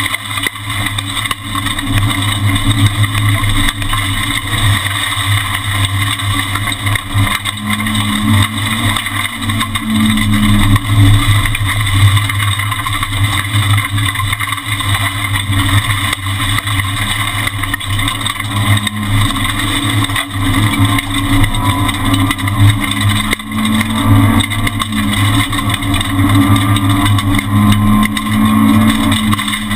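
Renault Twingo R1 rally car's four-cylinder engine running hard, heard from inside the stripped cabin, its pitch rising and falling as the car speeds up and slows through the stage.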